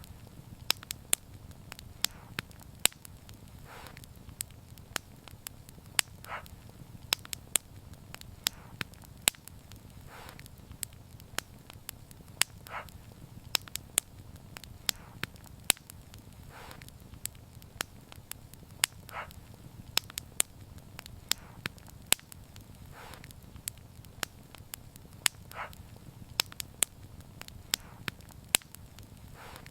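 Wood fire burning and crackling, with irregular sharp pops and snaps over a low steady rumble of flames, and a softer short hiss every few seconds.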